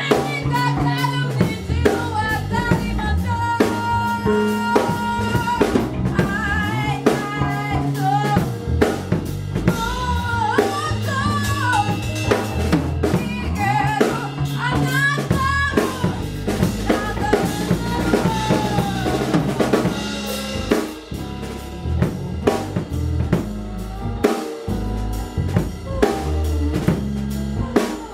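Band music: a drum kit keeping a steady beat under held bass notes, with a wavering melody line on top.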